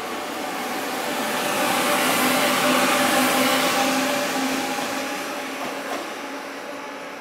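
A train passing, its running noise building to a peak about two to three seconds in and then fading away.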